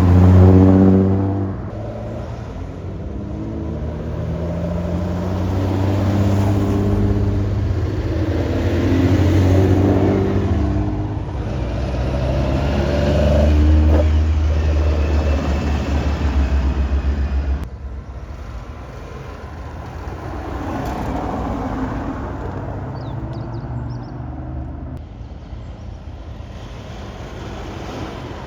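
Classic Japanese cars driving past one after another, their engines revving and changing pitch as each pulls away. The sound drops off suddenly about two-thirds of the way through, leaving quieter engine sound.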